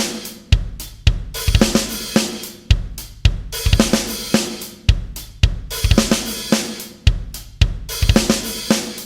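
Rock drum kit playing alone, a repeating pattern of heavy kick and snare hits under crashing cymbals and hi-hat.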